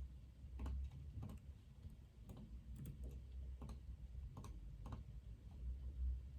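Computer keyboard typing: irregular keystroke clicks, about two a second, over a low steady hum.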